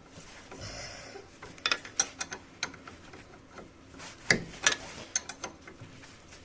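Irregular metallic clicks and clanks of hand tools and parts being handled during car repair work, with the loudest knocks about two seconds in and again around four and a half seconds in.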